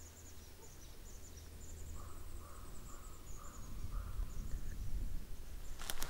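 Wild birds calling: a high, thin twittering through the first half, and from about two seconds in a run of about five evenly spaced lower calls, over a low rumble of wind.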